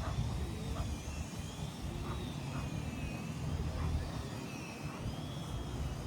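Steady low rumble of distant engines, with a faint high whine that slowly wavers up and down in pitch.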